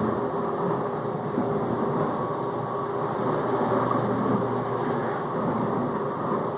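Whirlpool dishwasher circulating water in its final rinse: the wash pump running steadily while water sprays around the tub, a continuous whooshing with a low hum underneath.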